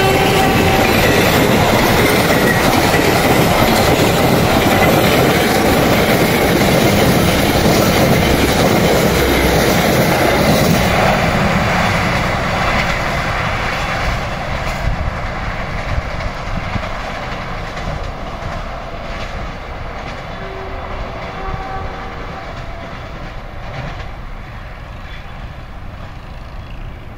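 Argo Bromo Anggrek passenger train passing on the track. It is loud for about the first eleven seconds, then fades steadily as it moves away.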